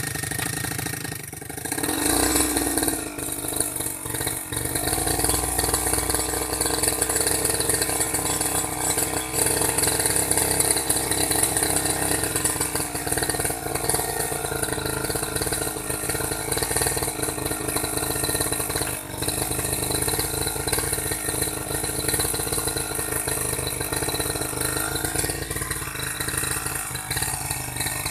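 Small engine of an old grass-cutting machine running steadily with a rattle, coming up in level about two seconds in.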